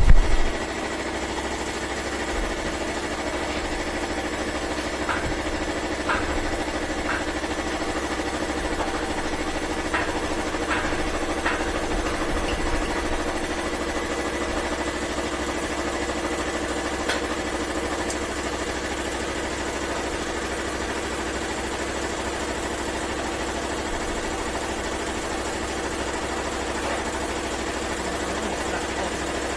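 A motor running steadily with a constant, even hum, with a few light clicks and knocks between about 5 and 13 seconds in.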